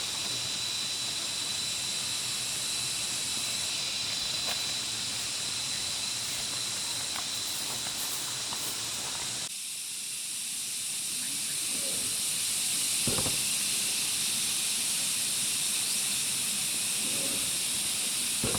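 Steady high-pitched hiss of outdoor ambience, with a thin steady whine in the first half. It changes abruptly about halfway through, and a few short knocks follow later.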